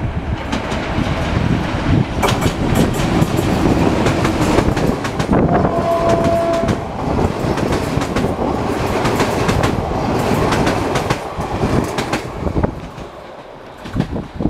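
Passenger train hauled by an EP07P electric locomotive passing through a station without stopping: the rumble of the locomotive and carriages, with rapid clicking of wheels over rail joints. A brief high steady tone sounds about six seconds in, and the noise falls away near the end as the train moves off.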